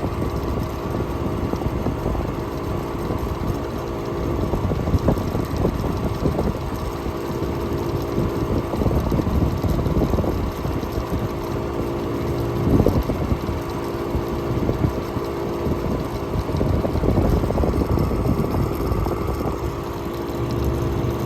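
1967 Chrysler Airtemp air conditioner running steadily, its compressor and fan giving a constant hum.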